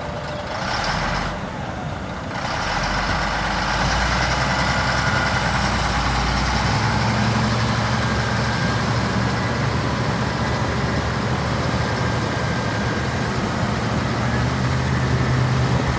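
Heavy diesel engine working hard: it grows louder about three seconds in, and its note steps up in pitch around seven seconds in, then holds steady.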